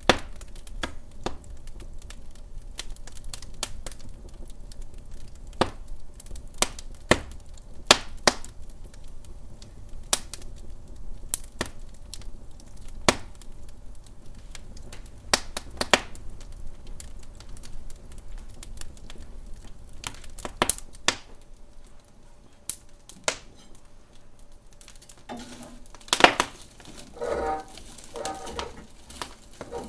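Wood fire in a fireplace crackling, with irregular sharp pops and snaps over a faint low rumble. Near the end come a few brief higher-pitched squeaking sounds.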